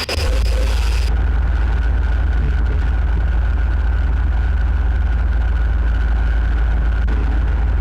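Loud, steady, deep droning rumble from an amplified live set, with a thin high tone held above it; a hiss in the top end cuts off about a second in.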